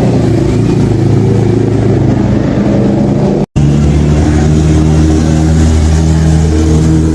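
Loud exhaust of high-performance vehicle engines running at fairly steady revs. An abrupt cut about halfway through changes to a second, steadier and deeper engine note.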